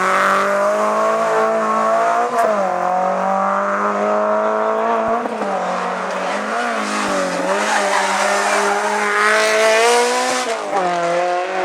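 Race car engine accelerating hard through the gears. Its pitch climbs steadily and then drops abruptly at each of several gear changes.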